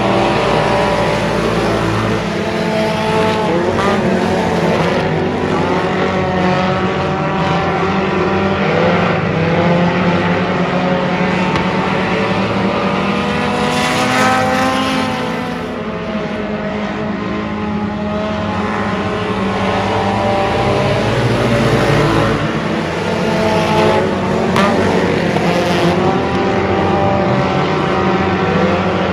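Race car engine running hard, its revs climbing and dropping again and again.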